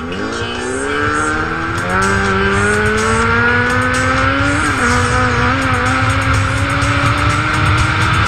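Engine under hard acceleration, its pitch climbing steadily. There is a break in the climb about two seconds in and a brief dip near five seconds, typical of gear changes.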